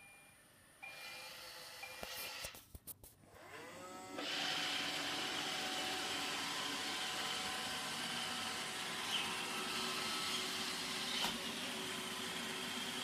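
iRobot Roomba 650 robot vacuum starting a cleaning cycle: a few clicks, then its motors spin up with a rising whine about four seconds in. It then runs steadily, with the hum of its vacuum motor and brushes.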